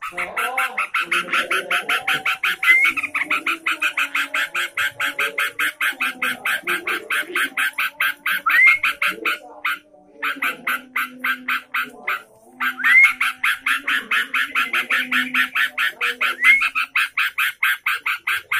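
Sooty-headed bulbul (trucukan) song recording: a fast, unbroken rattle of short repeated notes, about eight a second, briefly stopping twice midway. A few quick rising whistles and softer lower warbling run alongside.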